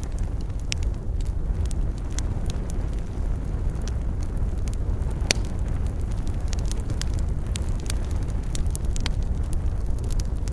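Wood fire crackling, with frequent irregular sharp pops of varying loudness, one especially strong about five seconds in, over a steady low rumble.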